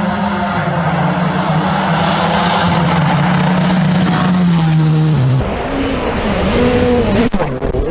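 Rally car engine held at steady high revs for about five seconds, then coming off the throttle, with the revs rising and falling several times. A sharp click comes near the end.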